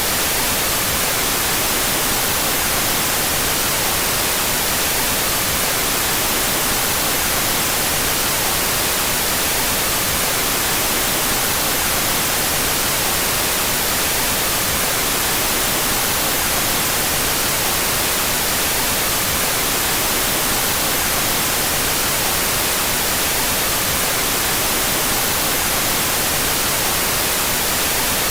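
Steady synthetic white noise, an even hiss weighted toward the high end, with the stereo channels put out of phase.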